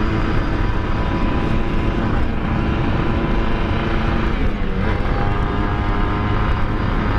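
Kawasaki Ninja R's single-cylinder two-stroke engine running hard under acceleration, with its pitch dipping briefly about halfway through, as at a gear change, then climbing again. The rider calls the bike very heavy and doesn't know why; its cylinder is worn and due for a rebore.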